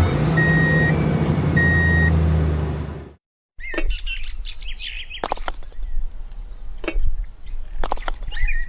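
A low, steady vehicle-like rumble with two short beeps, which cuts off about three seconds in; after a brief silence come chirping calls and a few sharp clicks.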